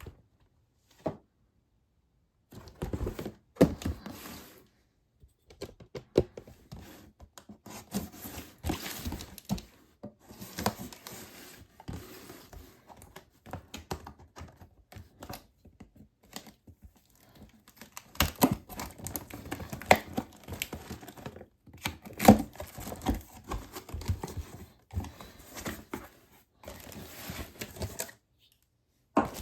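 Packaging being unpacked by hand: cardboard and plastic torn, crinkled and rustled, with irregular knocks and clicks as parts are handled and set down. There are a few short dead-silent gaps.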